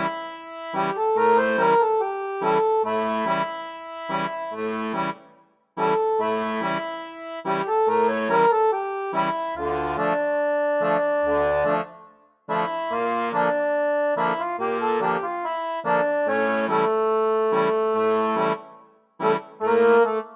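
Accordion music: short repeated phrases of held chords over bass notes, with brief pauses between phrases about every six seconds.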